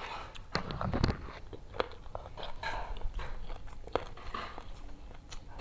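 Close-miked chewing of a handful of rice with jengkol balado and leunca berries: irregular crunches and mouth clicks, busiest about a second in.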